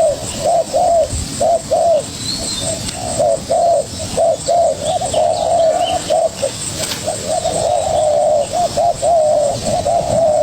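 Spotted doves cooing in quick repeated phrases, a young wild-caught bird and a decoy calling against each other in a territorial cooing duel. Faint high chirps of smaller birds sound now and then.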